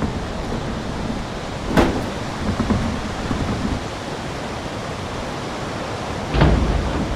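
Strong wind rushing over the microphone as a steady, even noise, with a sharp knock about two seconds in and a heavy low thud near the end.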